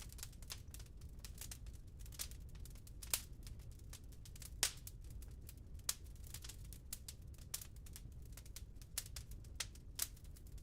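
Wood fire crackling in a fireplace: irregular sharp snaps and pops, a few louder ones about three and four and a half seconds in, over a low steady rumble.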